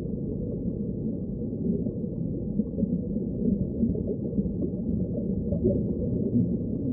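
Low, muffled ocean sound with no high end, a deep steady wash with irregular louder swells in the second half.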